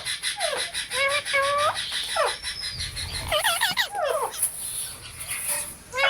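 Pet green parrots calling: a run of short, harsh squawks and chattering calls that bend and waver in pitch, one after another.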